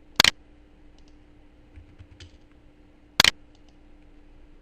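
Two sharp computer clicks, one near the start and one about three seconds later, with a few faint ticks between them, over a steady low hum.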